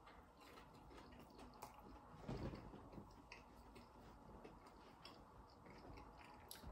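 Faint chewing of a breaded mozzarella dipper, with small scattered mouth clicks and a soft bump about two and a half seconds in.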